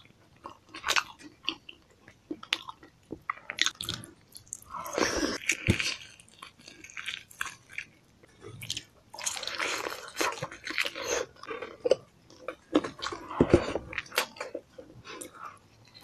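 Close-miked mukbang eating: wet, sticky chewing and biting of sauce-glazed pork with rice, with many irregular smacking clicks and a few denser wet stretches of chewing.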